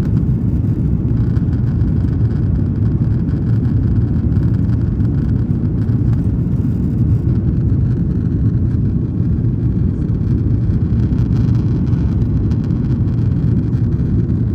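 Airliner cabin noise during the climb after takeoff: a steady, loud low rumble of the jet engines and airflow heard from inside the cabin.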